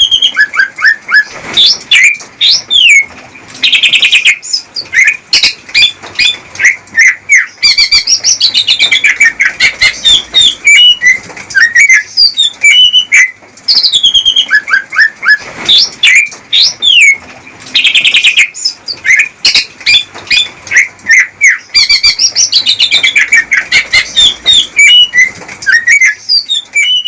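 Male greater green leafbird (cucak ijo) singing a loud, fast, varied song of whistles, sweeping notes and rapid chirps and trills with hardly a pause. This is the male's courtship song to a female.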